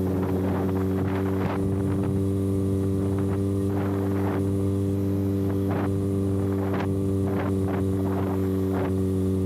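Kawasaki ZX-6R inline-four engine running at a steady, unchanging speed through an exhaust with its silencer canister removed, with scattered light clicks over it.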